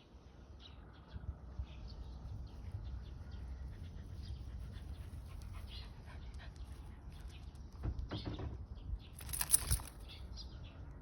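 Mixed-breed dog close to the microphone, with soft scattered noises and a brief loud, hissy burst about nine and a half seconds in.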